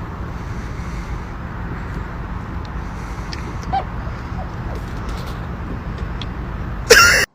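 Steady low rumble of a car on the move, then a very loud sudden burst just before the end, after which the sound cuts off.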